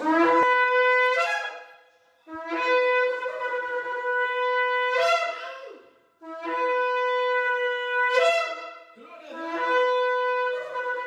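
Shofar blown in four long blasts, each held on one steady, bright note and ending with a quick upward break in pitch, with short gaps between them.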